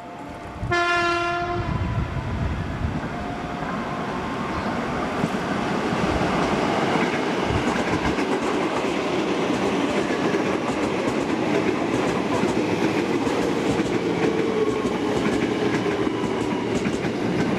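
Freight train locomotive horn sounding one short blast about a second in, followed by the train passing with a steady rumble and clickety-clack of wheels on rail joints, growing louder over the first few seconds and then holding.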